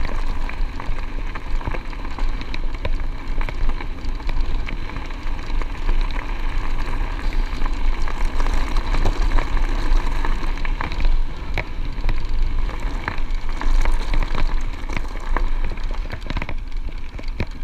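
Bicycle tyres rolling over a chunky gravel track, a continuous crackle of stones with many small sharp pops, under a steady low rumble of wind on the microphone.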